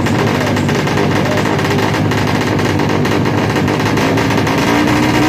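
Tuned Yamaha Jupiter MX drag bike engine revving hard, its pitch wavering and climbing toward the end.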